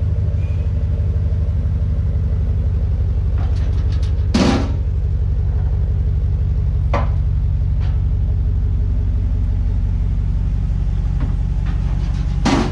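A 2019 Ram 1500's 5.7-litre Hemi V8 idling steadily through a muffler-delete straight-through exhaust, heard from behind the truck: a steady low rumble, a little loud. Twice a short burst of noise cuts in over it.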